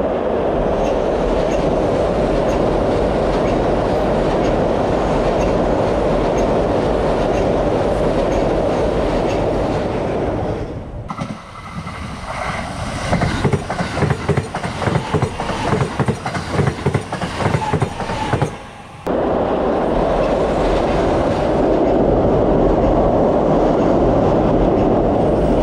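Electric express train passing close by: a steady rumble, broken in the middle by several seconds of rhythmic clickety-clack from wheels running over rail joints, then the steady rumble again. The changes between them are abrupt.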